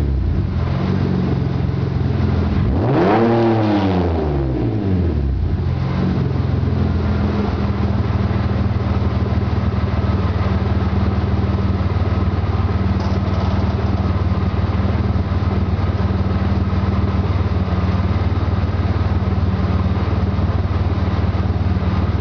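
1995 BMW M3's S52 straight-six through a 3-inch exhaust with a Magnaflow straight-through race muffler: revs falling back, one quick rev blip a few seconds in, then settling to a steady idle.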